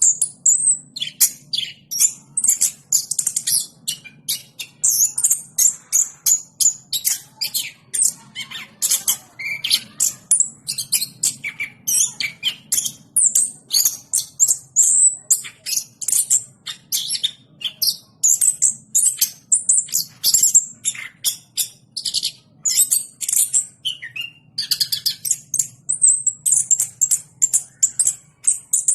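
Chestnut-capped thrush (anis kembang) singing without pause: a rapid, varied run of short high notes, chirps and trills.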